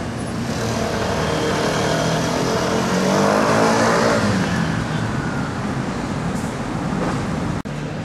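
A motor vehicle's engine driving by in street traffic, its pitch rising to a peak about four seconds in and then falling away.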